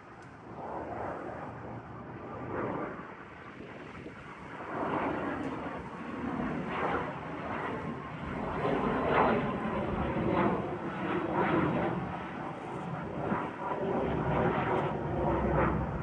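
Pilatus PC-24 business jet's twin Williams FJ44 turbofans at takeoff power, a rough jet roar that grows louder over the first half as the jet comes closer, then holds.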